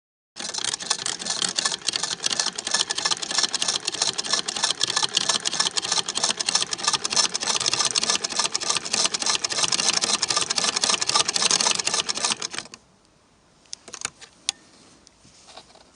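Antique Singer 28k vibrating-shuttle sewing machine running fast with a rapid, even clatter of stitching. It stops abruptly about 13 seconds in, followed by a few light clicks.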